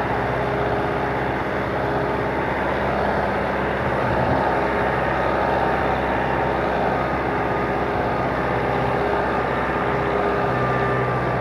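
Kubota M9540 tractor's diesel engine running steadily.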